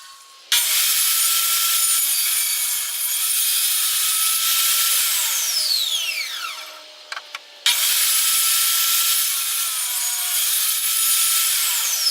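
Electric power tool cutting into plywood, in two runs. It starts about half a second in, cuts, then winds down with a falling whine, starts again just past the middle, and begins winding down again near the end.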